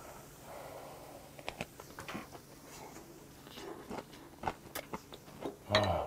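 Close-miked chewing of a mouthful of kimchi fried rice, with scattered short wet mouth clicks and smacks. Near the end the eater lets out a short, low 'mm' of satisfaction.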